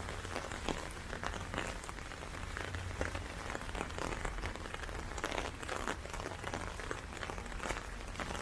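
Heavy rain falling, with many individual drops heard as dense, irregular sharp taps.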